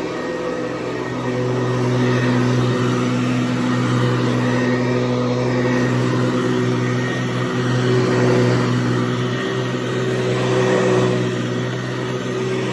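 Hoover Convertible Elite U4153 upright vacuum cleaner, with its 4.3-amp motor, running steadily with a pitched motor hum; it gets a little louder about a second and a half in.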